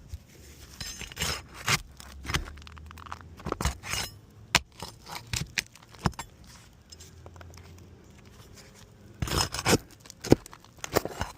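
Metal tool scraping and clinking against asphalt shingles as roofing nails are worked loose, in irregular strokes with a quieter pause in the middle and a quick run of sharp clicks near the end.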